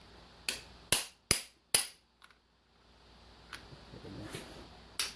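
Hammer blows on a driver mandrel seating a 1.5-inch stainless steel core plug into a diesel engine block: four sharp metallic strikes in quick succession, about two a second, then a pause with some handling noise and another strike near the end.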